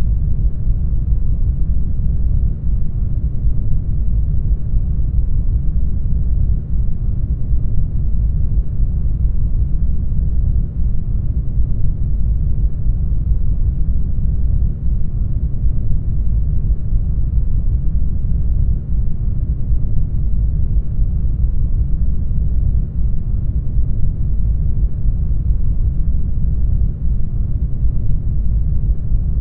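Steady brown noise: a deep, even rush, loudest in the bass and fading toward higher pitches, with no change throughout.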